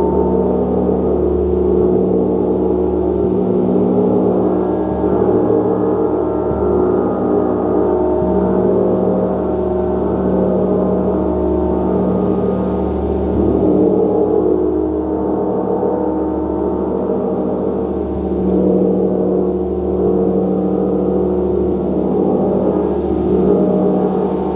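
Gong played continuously: a dense, sustained wash of many overlapping ringing tones that swells and eases every few seconds, without distinct separate strikes.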